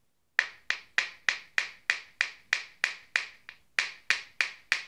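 Two pieces of unworked marble struck together again and again to throw sparks: sharp stone-on-stone clicks at an even pace, about three a second, each with a brief ring, beginning shortly after a moment of silence.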